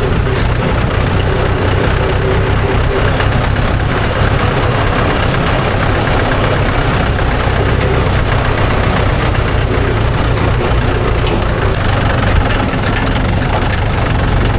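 Diesel tractor engine running steadily under way, heard loud and close from on the vehicle.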